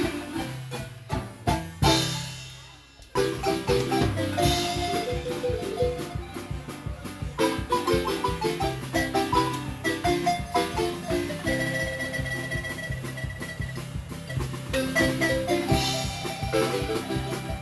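Marimba ensemble playing lively music, quick mallet notes over a bass line. About two seconds in, a final struck chord dies away, and the band starts up again about a second later.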